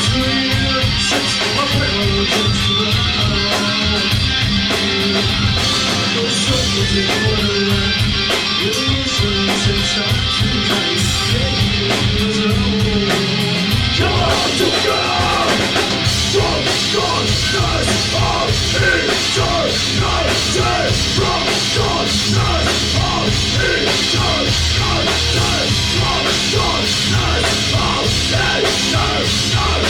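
Live rock band playing loud, with drum kit and electric guitar. About halfway through, the music moves into a busier part, with a quick run of notes over the drums.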